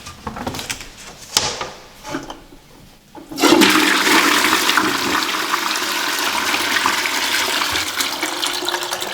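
Toilet flushing: a sudden rush of water starts about three seconds in and keeps running steadily. Before it come a few light knocks and clicks.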